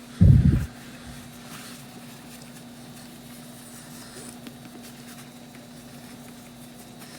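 A loud, low thump about a quarter second in, then faint scratchy rubbing as a paper towel is scrubbed over a plastic gauge cluster lens, scratching it, over a steady low hum.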